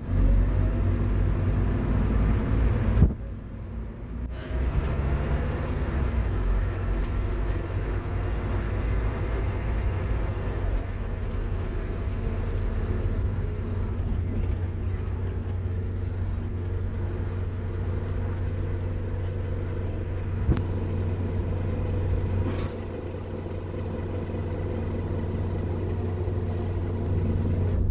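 Scania K230UB Omnilink single-decker bus heard from on board, its engine running with a steady low drone. The sound drops sharply for about a second, roughly three seconds in, then picks up again.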